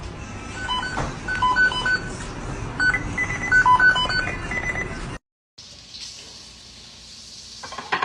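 A run of short electronic beeps at several pitches, forming a simple tune. It stops abruptly about five seconds in, and a steady faint hiss follows.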